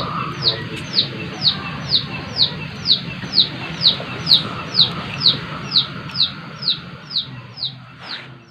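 A bird calling: one high, falling chirp repeated evenly about twice a second, over a steady low hum, fading away near the end.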